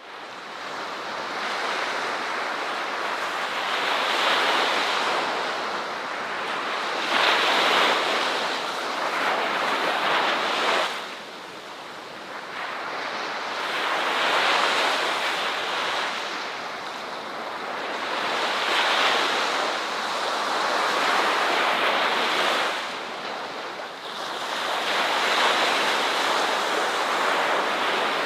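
Ocean surf breaking and washing onto a shore, the wash swelling and easing every few seconds.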